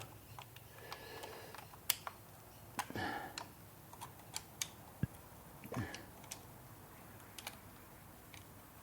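Scattered light clicks and taps of a hand screwdriver with a Torx bit on the bolts of a new PCV valve on an Audi 2.0 TFSI engine, as the bolts are done up a little at a time. The clicks are quiet and irregular, with no steady rhythm.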